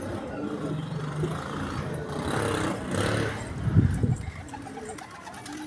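A motor vehicle passing close by, its noise swelling and fading, with a sharp thump a little past halfway. Pigeons coo faintly underneath.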